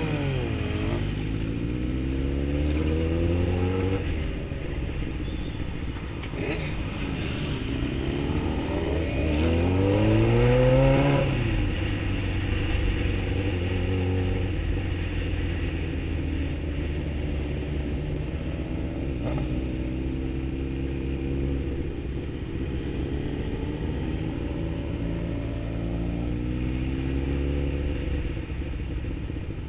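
Motorcycle engine heard from on board, accelerating through the gears. There is a run of short rises in pitch in the first few seconds, the loudest climb comes about ten seconds in, and another climb comes near the end, with steady running between.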